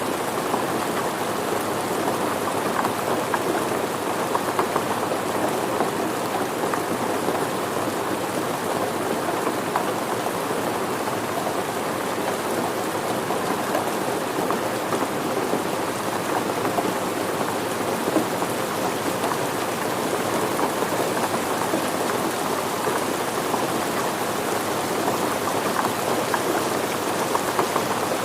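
Steady rain falling on surfaces, a dense even patter of many drops.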